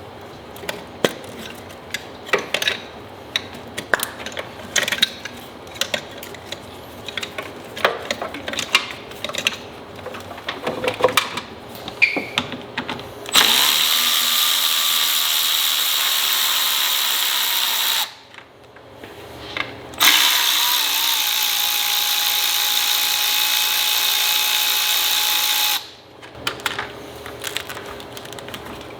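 Scattered clicks and knocks of tools and parts being handled, then a power tool runs in two long stretches of about four and six seconds with a short pause between, its whine sinking a little in pitch at the start of each run.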